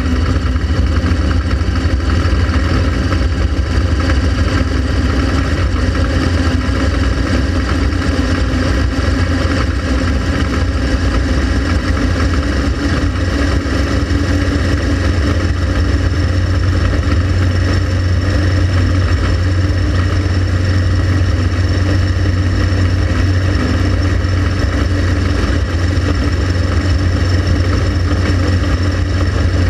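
Honda Transalp XL700V's V-twin engine running steadily while the bike is ridden, with a deep, even rumble and no big changes in revs.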